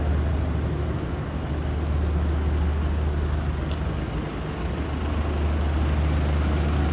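City street ambience: a steady low rumble of traffic under an even hiss, with one faint tick a little past halfway.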